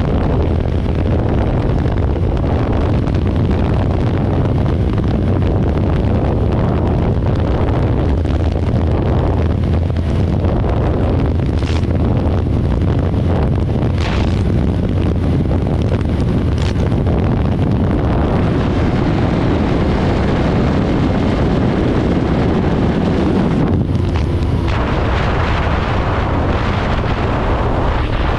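Yamaha R3 motorcycle riding at speed: its engine's low drone is largely buried under heavy wind buffeting on the microphone, which stays loud and steady.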